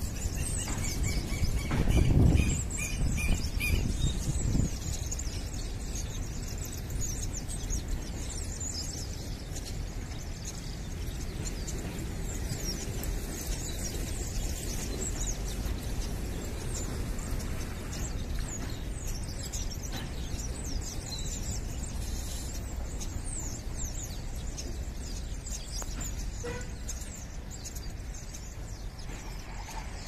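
Many small birds chirping and calling over a river, short high chirps coming thick and fast throughout. A louder low rumble comes about two seconds in and fades out over the next couple of seconds.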